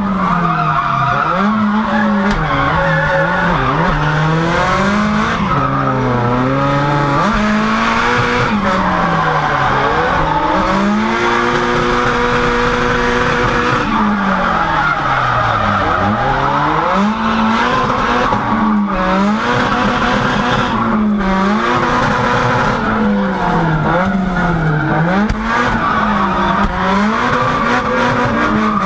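Drift-built Nissan Bluebird's SR20 four-cylinder engine revving hard through a drift, heard from inside the cabin, its pitch climbing and falling over and over and held steady for a couple of seconds near the middle. Under it, the rear tyres are spinning and skidding on the track surface.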